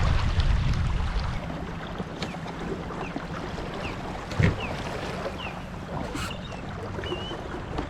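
Wind buffeting the microphone over water lapping around a fishing kayak, strongest in the first second, with scattered short high chirps. A single knock on the kayak sounds about four and a half seconds in.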